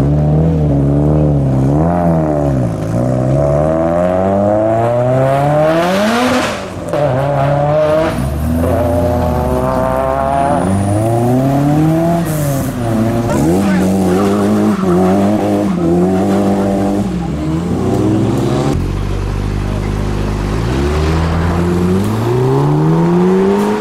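A car engine revved hard over and over, its pitch climbing and dropping in repeated sweeps, then settling lower briefly before rising again near the end.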